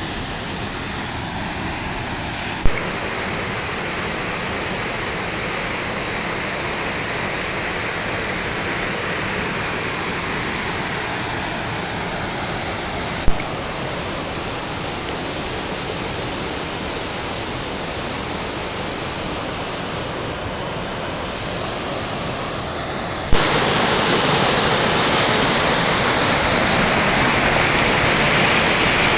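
Steady rushing roar of a waterfall. Three sharp clicks about ten seconds apart, each where the sound's character shifts; after the last one, near the end, the roar becomes louder and brighter.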